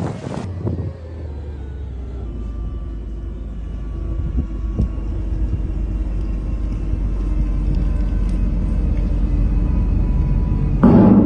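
Steady low rumble with a faint machinery hum, slowly growing louder, and a sudden louder burst of noise near the end.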